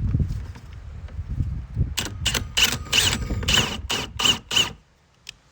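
Low rumbling handling noise on a plastic bucket, then a small power tool run in about eight quick bursts, each with the same high whine, before it stops near the end.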